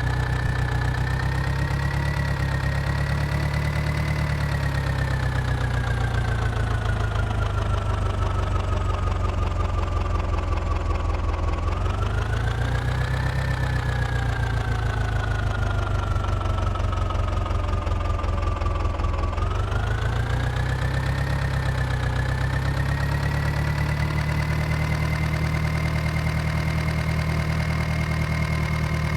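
Heavy diesel engine running continuously under varying revs. Its whine sinks slowly over several seconds, then climbs quickly, twice, before holding steady near the end.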